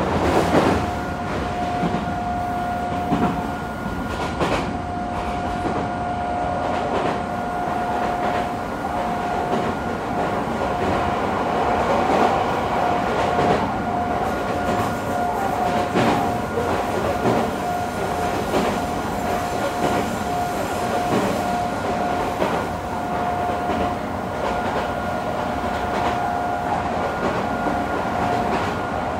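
Interior running sound of an Odakyu 3000 series electric train at speed: a steady rumble of wheels on rail with scattered clicks over the rail joints. About a second in, a steady high whine sets in and holds level.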